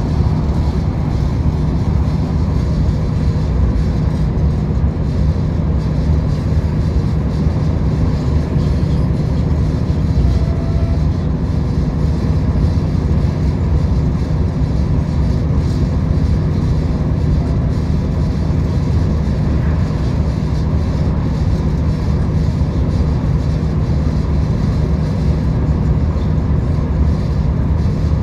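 A diesel V/Line passenger train running at speed, heard from inside the carriage. It is a steady, loud low rumble with a constant low hum over a rushing noise.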